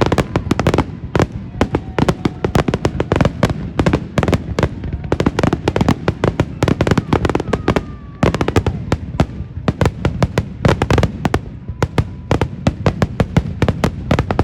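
Fireworks going off in a dense, continuous barrage of sharp cracks and bangs, many a second, thinning briefly about eight seconds in, with faint whistling tones among them.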